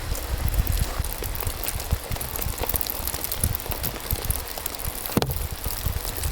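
Rain falling, with many scattered drops ticking and one louder tick about five seconds in, over a low rumble of wind on the microphone.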